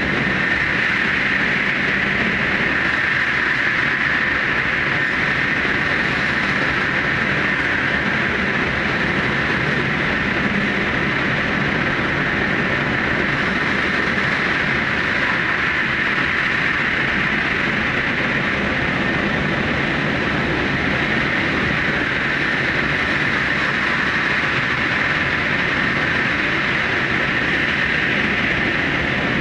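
Super Hakucho electric limited express train running at speed through the Seikan undersea tunnel, heard from the front cab: a steady, unbroken running noise of wheels on rail. The recording is sped up about twofold.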